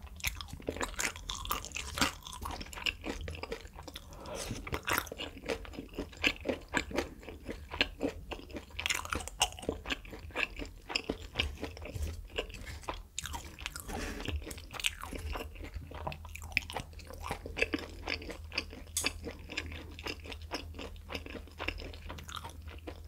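Close-up chewing of cooked beef intestine (makchang): a continuous run of small, irregular mouth clicks and pops as the fatty pieces are bitten and chewed.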